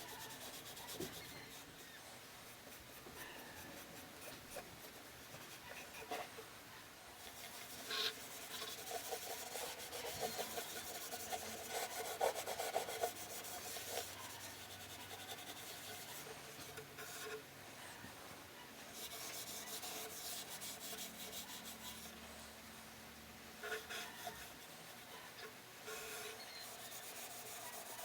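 Hand rubbing and scrubbing on the ukulele's wooden body in irregular strokes, with a few light knocks, as in wiping or polishing the wood clean.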